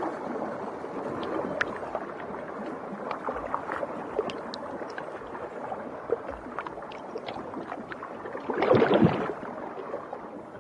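Underwater reef ambience: a steady hiss of water with scattered sharp clicks, and a brief louder rush of water near the end.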